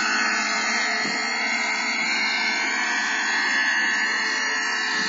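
YS 56 glow engine of a radio-control model running steadily at a constant speed while being broken in.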